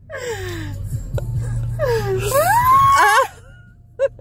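A woman's wordless, fearful whimpering squeals: a short falling whine, then a longer one that dips and rises to a high wavering pitch before breaking off, over the low steady hum of the idling car.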